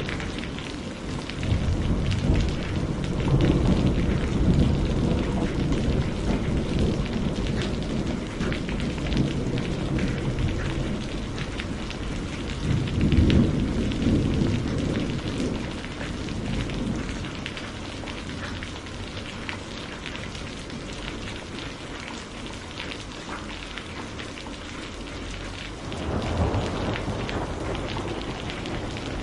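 Steady rain falling, with many small drop impacts, and low rolling rumbles of thunder that swell three times: about two seconds in, around thirteen seconds, and again near the end.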